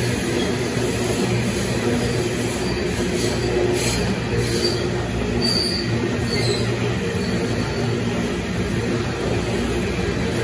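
Coal train's hopper wagons rolling past on steel rails in a steady rumble of wheels on track. Brief high-pitched wheel squeals come a few times around the middle.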